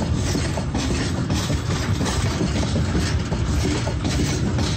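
Freight train hopper wagons rolling past on the adjacent track: a loud, steady rumble of steel wheels on rail with irregular clacks.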